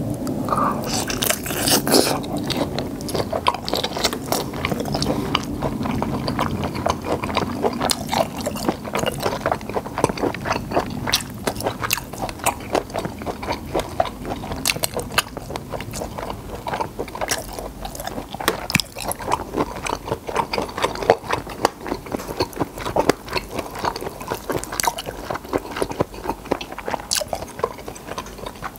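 Close-miked eating sounds of black tiger shrimp: crunching and chewing, made up of dense, sharp crackling clicks.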